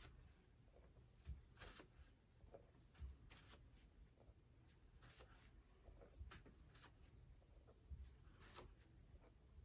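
Near silence with faint scattered rustles, light scratches and a few soft taps, like small hand-handling noises at a worktable.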